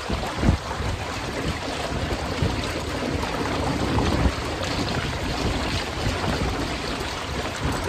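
Wind buffeting the microphone over a steady rush of water from a sailing Hobie Cat Getaway catamaran under way, with uneven low rumbles from the gusts, the strongest about half a second in.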